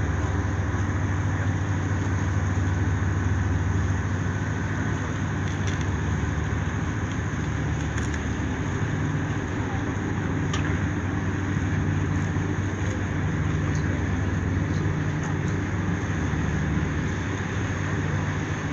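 A steady low engine drone that hums evenly without rising or falling, with a few faint clicks over it.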